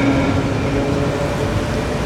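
Tram running with a steady rumble and faint steady whining tones.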